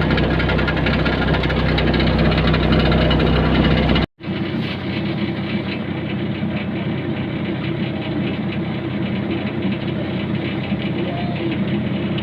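Hyundai excavator's diesel engine idling steadily. It cuts off abruptly about four seconds in and resumes at once with less low rumble.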